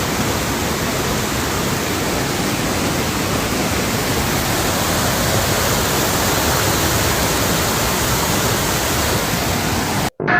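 Steady, loud, even rushing noise with no separate events, which stops abruptly near the end at a cut.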